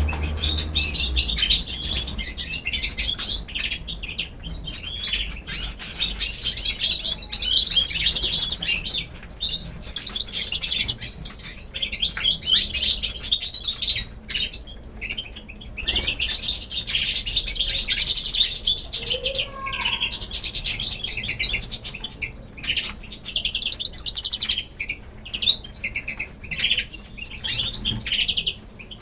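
Many small pet birds chirping and chattering continuously in high-pitched calls, dipping briefly a few times.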